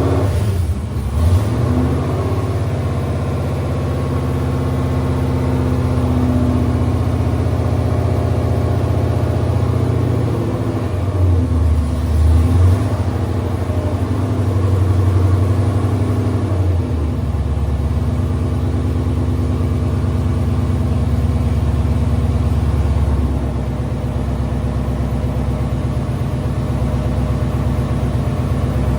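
Chrysler Hemi V8 running on a freshly installed Holley Terminator X EFI system, idling with its engine speed rising and falling a few times. The engine is still untuned and, by the owner's account, has a vacuum leak.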